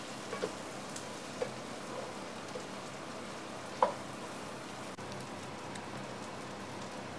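Rice, potatoes, onions and chorizo frying in oil in a pot: a steady sizzling hiss, with a few light taps and scrapes of a wooden spatula as it is stirred, the loudest about four seconds in.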